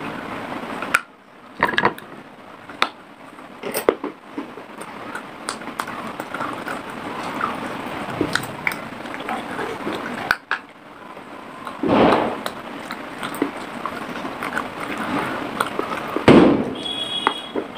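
Close-miked crunching and chewing of pieces of unglazed fired clay pot (kulhad), with sharp crackling bites and gritty grinding, and two louder crunches in the second half.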